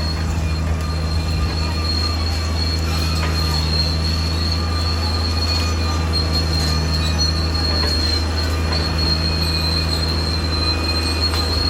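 Caterpillar D6R XL bulldozer working, its diesel engine running steadily under a continuous high-pitched squeal from the steel crawler tracks.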